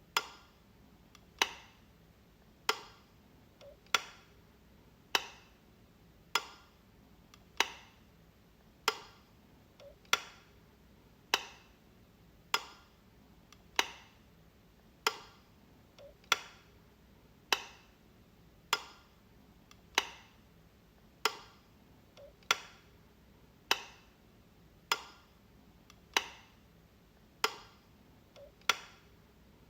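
Wall light switch being flicked over and over, a sharp click about every second and a quarter.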